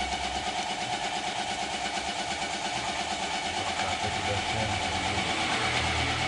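BMW E36's M52B20 straight-six engine running at idle with an even, fast pulsing and a steady mid-pitched whine over it, during a test run for a misfire blamed on water in the spark plug wells.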